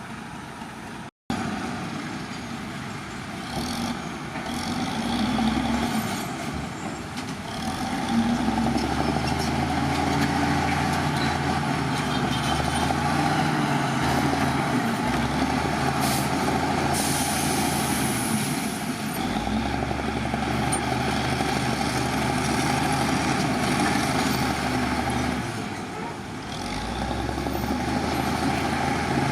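Heavy diesel engines of earthmoving machinery working, their drone rising and falling in pitch as they take load. There is a brief high hiss a little past the middle.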